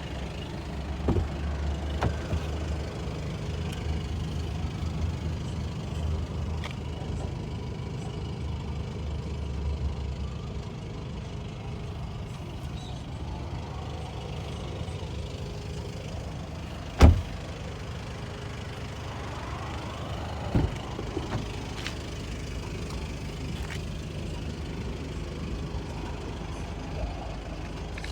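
Volkswagen Golf VII GTD's four-cylinder 2.0 TDI diesel engine idling with a steady low hum, which drops in level about ten seconds in. Partway through, one loud sharp thump stands out, with a smaller knock a few seconds later.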